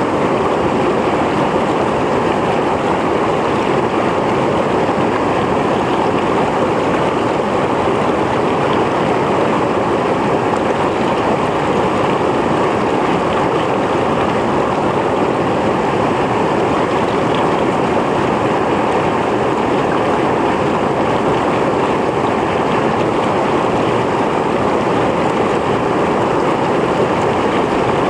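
Mountain stream flowing, a steady rushing of water over rocks with no change in level.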